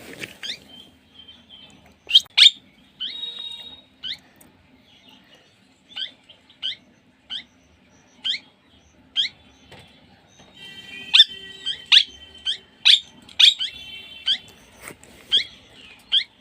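A parrot calling: sharp, high, short calls that slide downward in pitch, repeated irregularly. About two-thirds of the way through they run together into a denser, warbling burst of chatter.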